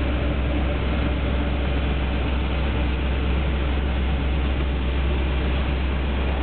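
1976 Chevrolet Corvette Stingray's 350 V8 idling: a steady, unchanging low rumble with a hiss over it.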